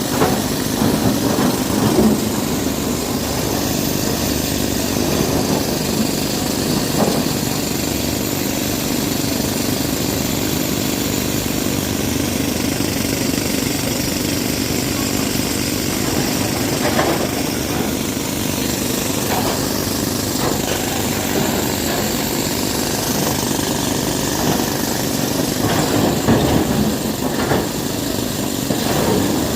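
Diesel engine of heavy construction machinery running steadily under load, with scattered short knocks and clatters now and then.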